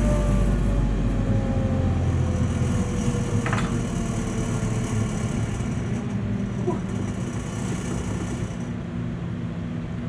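Lathe motor and spindle, with a buffing wheel fitted, coasting down after being switched off; its pitch falls slowly and evenly and the sound fades gradually.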